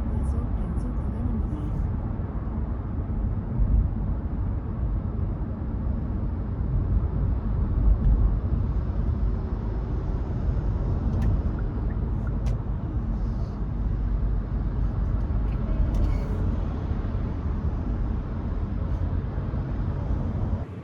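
Hyundai Casper driving, a steady low rumble of engine and road noise.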